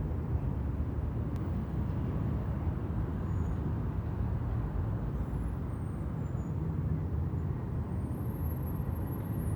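Steady low rumble of city buses and car traffic on a busy urban avenue, with a few faint high-pitched squeals in the last couple of seconds.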